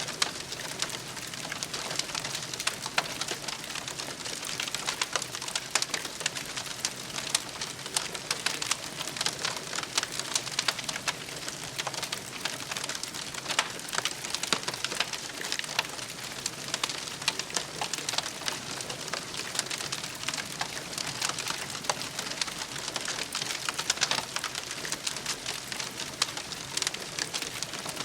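Wood fire crackling, with many small irregular pops and snaps over a steady hiss.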